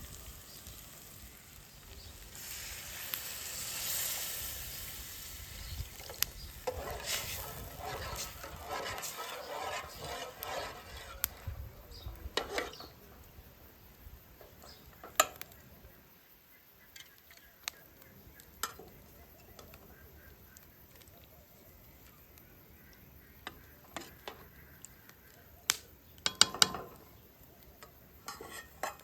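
Food sizzling in a pan while it is stirred, with scattered clicks of a utensil against the pan. The sizzle is strongest in the first half and fades to a quieter stretch of occasional clicks, with a brief cluster of louder knocks near the end.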